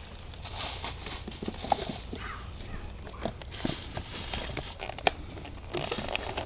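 Scattered light clicks and knocks with short bursts of rustling from hands handling food, foil and utensils at a camp cooking table, with one sharper click about five seconds in.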